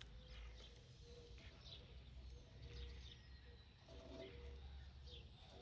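Near silence: faint room tone with a low hum and a few faint, distant bird chirps.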